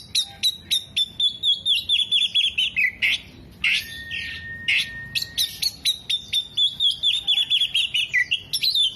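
Oriental magpie-robin singing: two runs of quick, sharp chirps that step down in pitch, with one long, level whistle between them.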